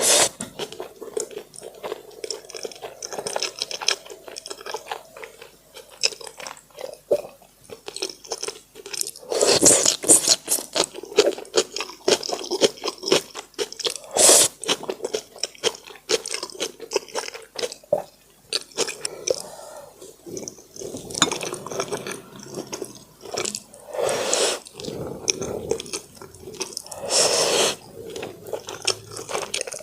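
Close-miked eating: a person chewing and biting food, with many small wet clicks and crunches and a few louder bursts now and then.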